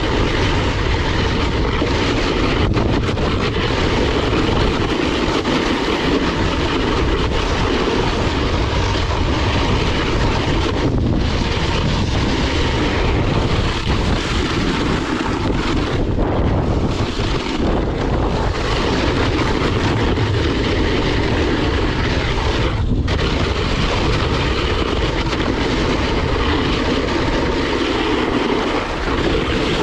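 Steady rush of wind on the microphone mixed with a snowboard sliding and scraping over hard, icy snow on a steep descent.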